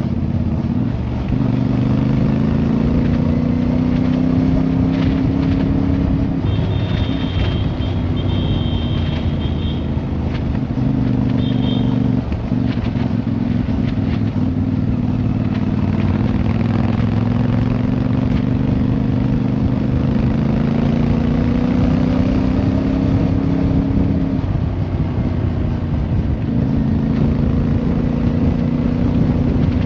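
Motorcycle engine running under way, its pitch climbing slowly and then dropping at each gear change. A high two-tone beeping is heard for a few seconds about seven seconds in.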